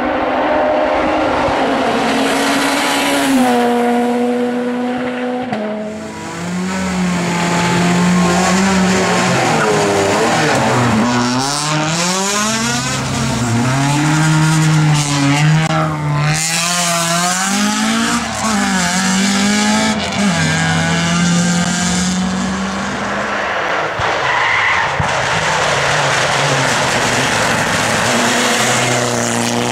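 Rally car engines at full throttle, the pitch climbing through each gear, dropping sharply at changes and under braking, then rising again many times over, with tyre noise on top.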